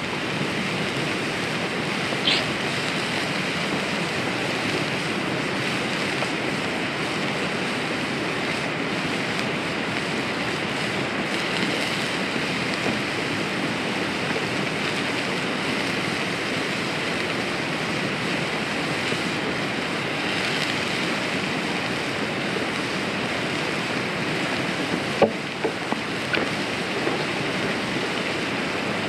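Burger patty frying in hot oil in a cast-iron pan, a steady sizzle with a few sharp pops or clicks about two seconds in and again near the end.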